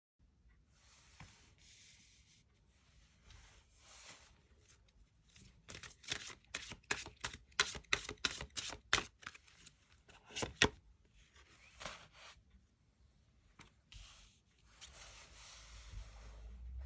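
Tarot cards being shuffled and handled: soft rustling and sliding, with a dense run of quick sharp snaps in the middle, then rustling again.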